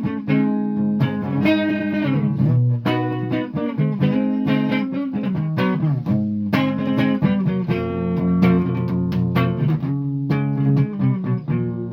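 Guitar being played: a steady run of plucked notes and chords.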